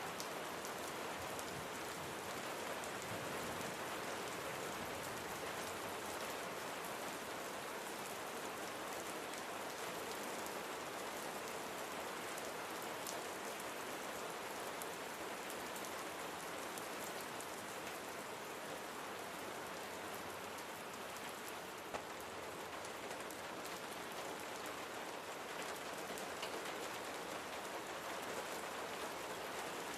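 Steady rain falling and pattering on surfaces, an even hiss of many drops with a single slightly louder drop tick about two-thirds of the way through.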